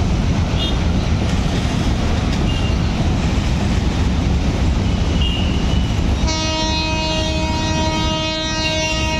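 Freight train running through with a steady heavy rumble; about six seconds in, a train horn sounds one steady blast of about three seconds.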